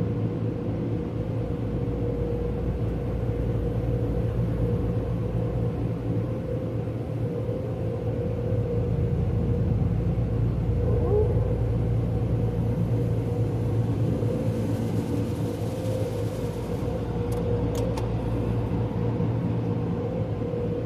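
Steady low mechanical rumble with a constant hum, as of a running engine or wash machinery at a truck wash, with a couple of faint ticks near the end.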